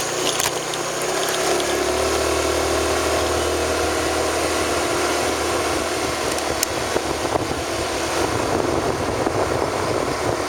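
A vehicle engine running steadily while on the move, with road and wind noise. There are a few knocks near the start as it goes over broken road surface, and the engine note shifts about two seconds in.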